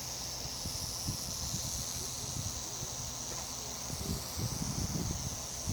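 Rattlesnake's tail rattle buzzing, a steady high hiss-like whir that holds without pause. Scattered low thumps and rumbles sit under it.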